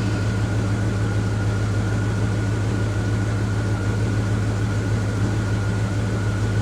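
Truck engine idling steadily with a constant high whine above the engine note, sounding rough. The truck has been surging and blowing black exhaust, which the owner has been told points to the catalytic converter.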